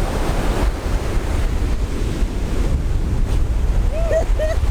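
Strong wind buffeting the microphone over the steady wash of ocean surf. About four seconds in, two or three short arched calls rise and fall briefly over the noise.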